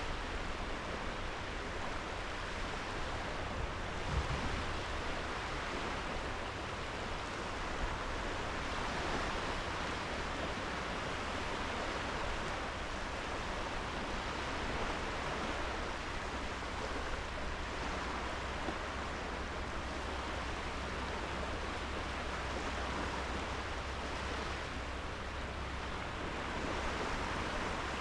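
Small sea waves breaking and washing onto a sandy beach: a steady, even rush of surf. A brief low thump about four seconds in.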